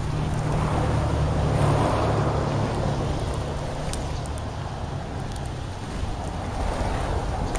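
Road traffic: a steady low engine hum with tyre noise that swells as vehicles pass, about two seconds in and again near the end.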